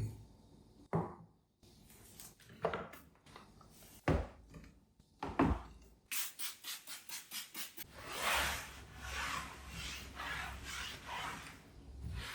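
Household cleaning by hand: a few separate knocks as things are handled and set down, then a quick run of short rubbing strokes, about five a second, running into steady scrubbing or wiping of a surface.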